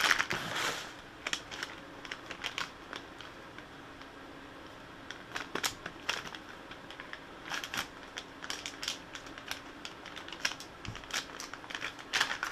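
Packaging being handled: scattered crinkling and light clicks, coming in irregular clusters.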